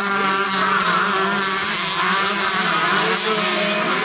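Several 125cc two-stroke motocross bikes racing, their engines revving up and down at different pitches over one another.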